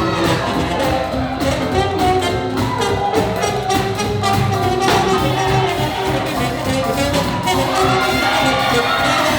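Live swing jazz orchestra playing, horns holding pitched lines over a steady beat.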